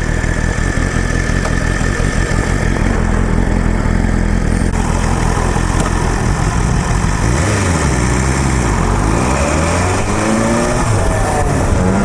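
BMW S1000RR's inline-four engine running under way, holding steady revs at first; from about seven seconds in the revs rise and fall several times, then climb again near the end.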